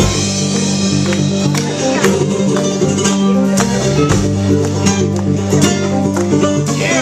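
A live bluegrass band playing an instrumental break at full tempo: quick plucked string picking over a steady bass line, with no singing.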